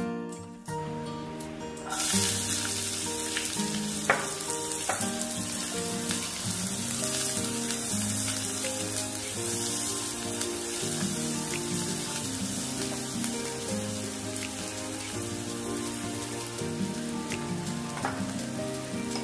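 Chopped onions frying in melted butter, a steady sizzle that starts suddenly about two seconds in as they hit the hot pan, with a few sharp taps of the silicone spatula as they are stirred.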